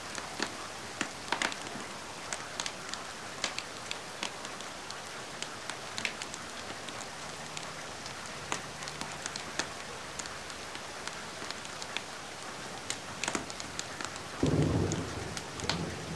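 Steady rain hiss mixed with a wood fire's frequent sharp crackles and pops. A louder low rumble comes in near the end.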